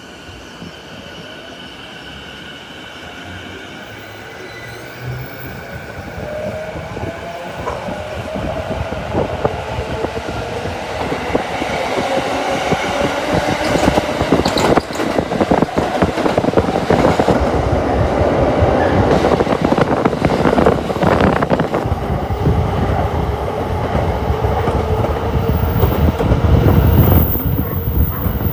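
Shinkansen high-speed train running on the rails, its noise growing steadily louder as it approaches.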